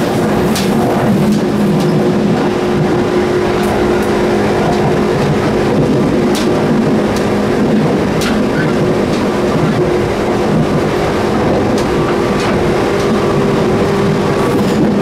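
JR 213 series electric train running, heard in the gangway between cars: a loud, steady rumble with a steady hum, broken by scattered sharp clicks and knocks at irregular intervals.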